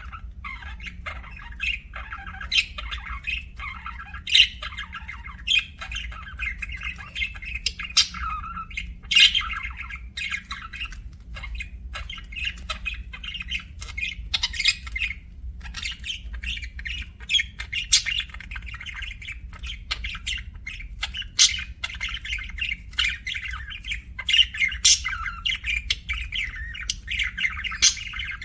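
Budgerigars chattering continuously: a busy warble dotted with many sharp, high chirps.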